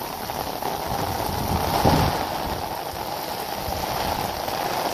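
Heavy rain falling steadily, together with water gushing out of a sewage pump's discharge outlet. There is a brief louder swell about two seconds in.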